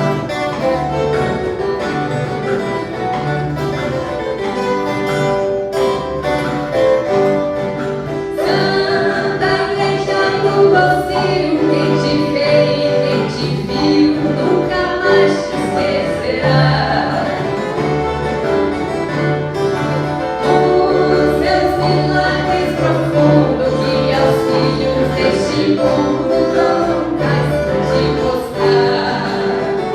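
Ensemble of viola caipira (ten-string Brazilian folk guitars) playing a Christmas song, with a group of voices singing along from about eight seconds in.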